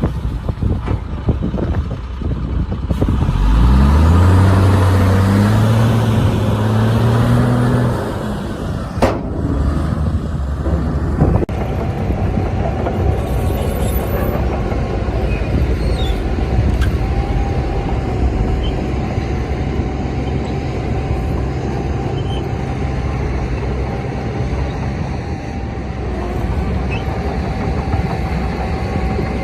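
Heavy diesel earthmoving machinery: an engine revs up sharply about three seconds in, holds high for several seconds and drops off, then runs steadily under load. Two sharp clicks come a few seconds after the rev.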